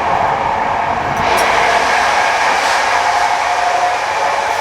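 Running noise of an older passenger train carriage under way, heard from inside: a steady rush of wheel and track noise with a constant whine running through it.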